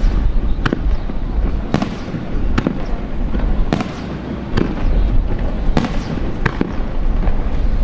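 Aerial fireworks going off in quick succession: sharp bangs roughly once a second, irregularly spaced, over a continuous low rumble of the display.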